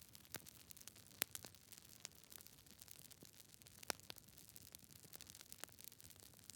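Campfire wood burning with irregular crackles and pops over a faint hiss, the loudest pops about a second in and near four seconds.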